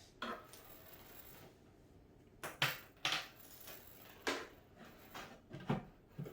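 Scattered light knocks and clicks, about eight at irregular intervals, of cat tower parts being handled during assembly.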